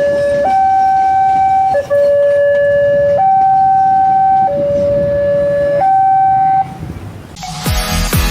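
Railway level-crossing warning alarm sounding a steady two-tone hi-lo signal, switching pitch about every 1.3 seconds: the crossing is closed for an approaching train. It cuts off about six and a half seconds in, and electronic music starts near the end.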